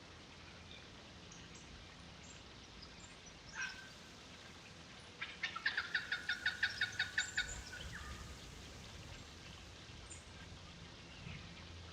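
A bird calling: one short chirp, then about halfway through a fast rattling series of a dozen or more sharp notes lasting a couple of seconds.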